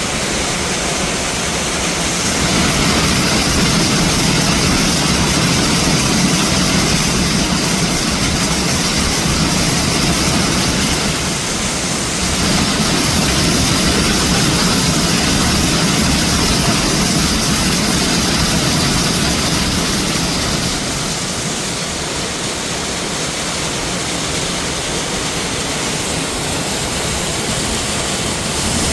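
Waterfall and water rushing over rocks: a loud, steady roar of water that swells and eases slightly over time.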